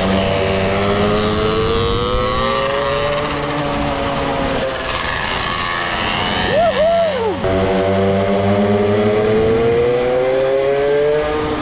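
Mini motorbike engines running hard on a race track, their pitch rising and falling as the riders accelerate and ease off, with two quick rev blips about seven seconds in.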